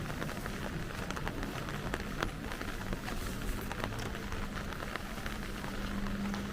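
Rain falling, with many separate drops ticking sharply close by over a steady hiss. A low steady hum comes in over the rain about four seconds in.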